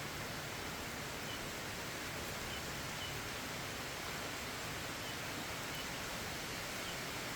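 Steady hiss of falling rain, with a few faint short bird chirps scattered through it.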